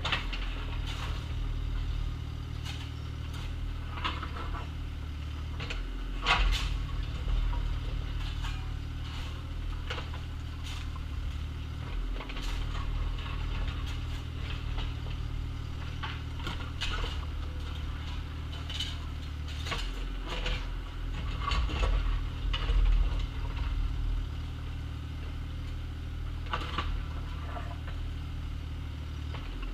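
Excavator engine running steadily, its note shifting every several seconds as it takes load, with frequent sharp clanks and scrapes of the bucket working dirt and gravel.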